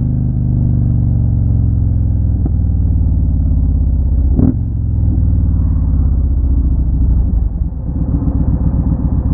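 Motorcycle engine running while riding, with a sharp knock about four and a half seconds in; from about seven and a half seconds in it drops to a lower, pulsing beat as the bike slows.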